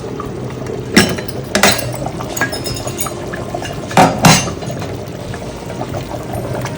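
Kitchenware clinking against a cooking pot four times, in two pairs, over a steady background hiss.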